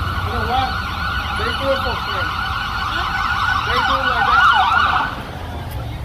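Emergency-vehicle siren wailing in a fast warble, rising and falling several times a second, cutting off about five seconds in, over a steady low rumble of engine or traffic noise.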